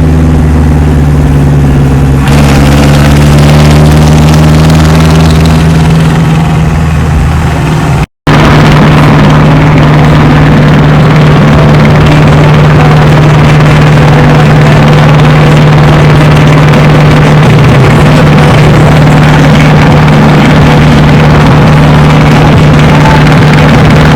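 Tractor diesel engine running loud and close at a steady speed, with a brief break about eight seconds in where the sound drops out, then picks up again at the same steady pitch.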